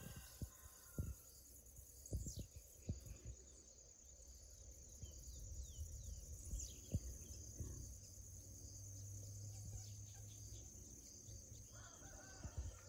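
Faint outdoor ambience: a steady high insect drone with a few scattered bird chirps and occasional soft thumps.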